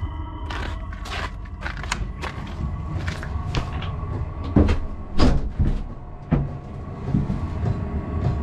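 Vevor 8 kW 12 V diesel air heater running with a steady low drone, settled into blowing heat after start-up. Irregular knocks and rustles sound over it, loudest about halfway through.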